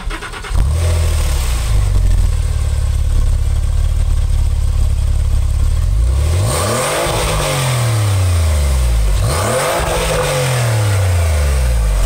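Porsche 911 Turbo (997) twin-turbo flat-six exhaust at idle, then revved twice, each rev rising in pitch and falling back to idle.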